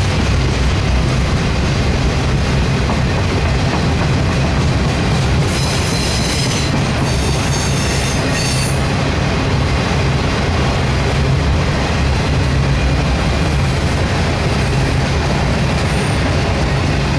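Freight cars of a CSX ballast train, open hoppers and then tank cars, rolling past close by: a steady loud rumble and clatter of steel wheels on the rails. A high wheel squeal rises over it for a few seconds around the middle.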